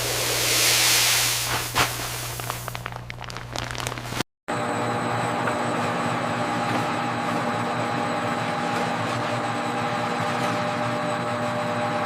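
A loud, even hiss with a few crackles for about four seconds, then a brief cut to silence and a steady factory machine hum with several constant tones.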